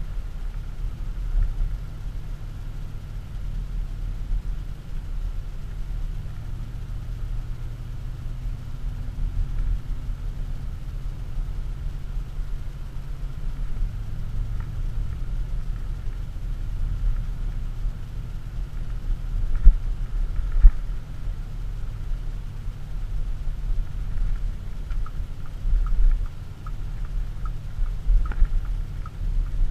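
Audi SQ7's 4.0 TDI V8 diesel running at low town speed, heard from inside the cabin as a steady low rumble with road noise. There are two short knocks about twenty seconds in, and a regular light ticking, like a turn-signal indicator, in the last few seconds.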